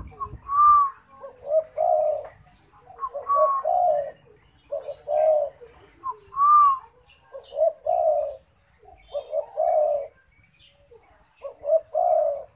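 Spotted dove (derkuku) cooing over and over, about seven phrases roughly every one and a half to two seconds. Each phrase is a higher arched note followed by lower, rolling coos.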